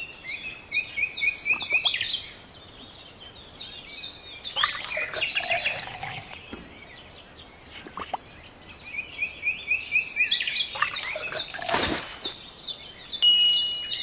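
Small birds chirping in repeated bursts of short, high calls, with a few brief swishing sounds in between.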